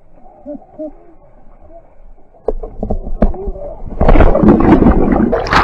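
Knocks and scuffling on an inflatable raft, then about four seconds in a loud burst of splashing and shouting as rafters are pushed overboard into the river.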